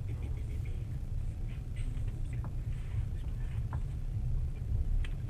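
Steady low rumble of a moving train heard from inside the carriage, with faint voices and a few small clicks over it.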